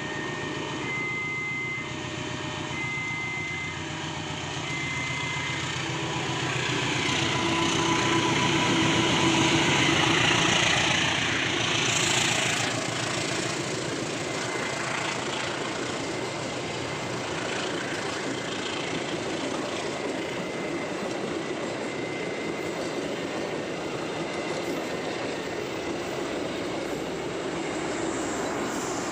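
A train passing on rails, its running noise building to its loudest a little before the middle and then going on steadily. A steady beep repeats about once a second for the first five seconds, then stops.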